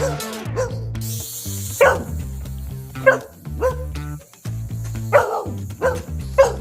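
A dog barking repeatedly in short sharp barks, about six of them at uneven gaps, over background music with a steady beat.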